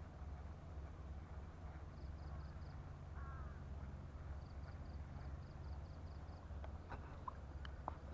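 Quiet open-air ambience under a steady low rumble, with faint groups of short high chirps repeating. A bird calls once about three seconds in, and a few light clicks come near the end.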